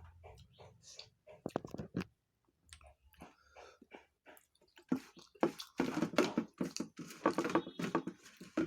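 Close-up chewing and wet mouth clicks of a person eating rice and pigeon curry with their hands, soft and sparse at first, then louder and busier from about five seconds in.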